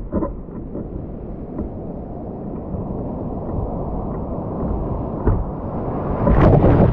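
Wind rumbling on an action-camera microphone while skiing, with scattered knocks. It grows slowly louder and turns into a much louder rush near the end.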